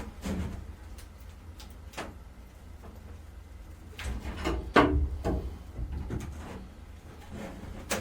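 Scattered knocks and scrapes of hands-on work, thickest and loudest about five seconds in, over a steady low rumble.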